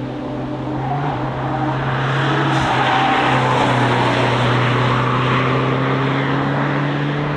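Car engine running at fairly steady low revs as the car passes through a corner, growing louder to a peak about halfway through and then fading a little as it moves away.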